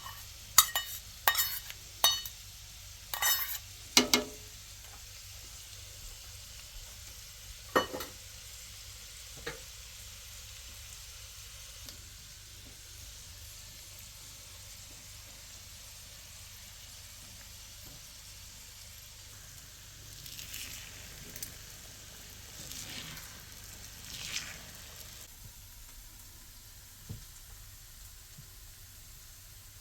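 Food frying in a pan with a steady sizzle. A utensil knocks against the pan several times in the first few seconds, and a few softer scrapes come later.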